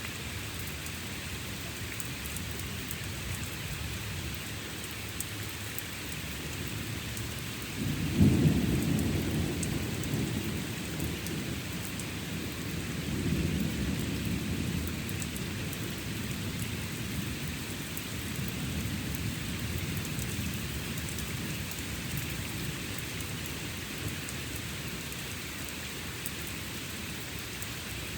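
Steady rain falling through a thunderstorm. About eight seconds in a sudden thunderclap breaks out and rumbles away over several seconds, and a second, weaker roll of thunder follows about five seconds later.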